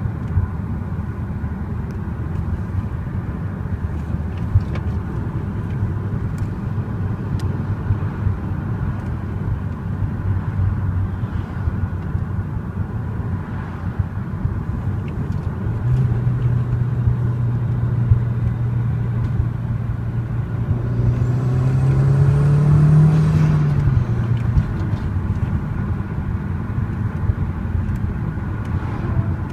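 Audi TT 225's 1.8-litre turbocharged four-cylinder on its stock exhaust, cruising with a steady engine drone over road noise. Its note firms up about halfway through. About three quarters in it climbs briefly under acceleration with a high whistle, then falls back.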